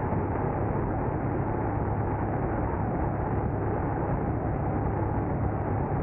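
Steady road and engine noise of a car being driven, a continuous low hum with rushing noise and no sudden events.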